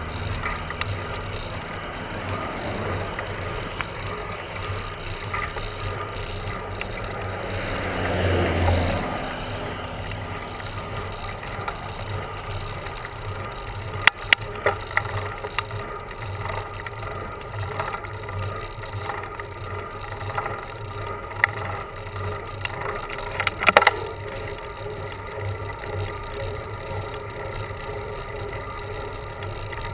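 Bicycle riding along a road: steady tyre and drivetrain noise, with a swell of sound about a quarter of the way in and sharp rattling clicks near the middle and again a few seconds later.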